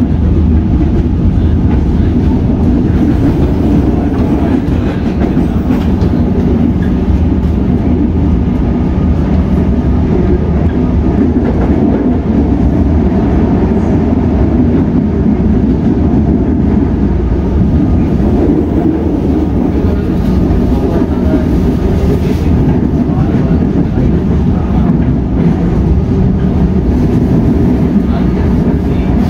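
Comeng electric suburban train running at speed, heard from inside the carriage: a steady, loud rumble of the wheels on the rails and the car body, with rail clatter.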